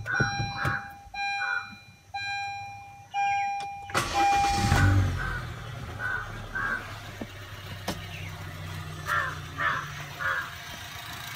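A dashboard warning chime beeps over and over, then about four seconds in the Honda Amaze's 1.2-litre four-cylinder i-VTEC petrol engine is started, flares up briefly and settles into a quiet, steady idle.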